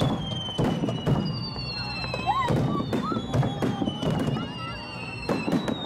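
Aerial firework shells bursting in a rapid, irregular series of bangs during a display finale, with long high whistles that slowly fall in pitch running over them.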